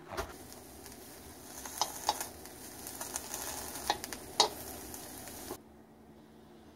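Tempeh strips sizzling as they fry in a nonstick wok, with metal tongs clicking against the pan several times as they are turned. The sizzle cuts off abruptly a little over five seconds in, leaving quiet room tone.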